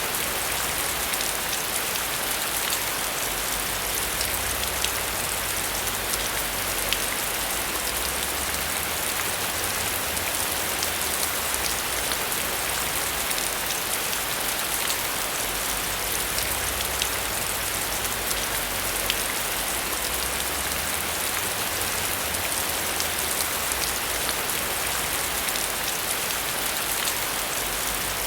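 Heavy rain falling steadily: a dense hiss dotted with sharp ticks of individual drops striking a surface, over a low, uneven rumble.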